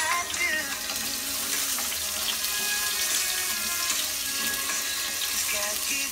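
Food sizzling in hot oil in a pot as it is stirred with a spatula, a steady hiss.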